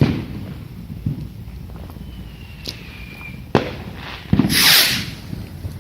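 Fireworks going off: a sharp bang at the start, a couple of smaller cracks, and a faint falling whistle. Then comes a loud rushing hiss lasting about a second, some four and a half seconds in.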